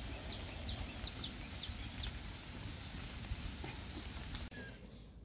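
A small bird chirping, a short high chirp about three times a second for the first two seconds, over a steady outdoor hiss with a low rumble. The sound drops off sharply near the end.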